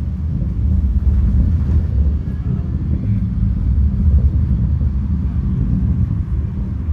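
Deep, steady rumble of an Atlas V rocket climbing after liftoff, the launch sound arriving well after the rocket has left the pad; it grows louder about a second in.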